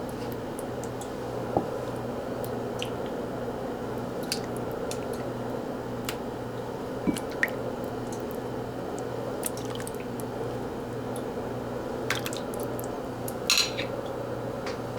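Kitchen sounds over a steady low mechanical hum, like a fan: scattered small liquid pops and drips, and a brief clatter near the end.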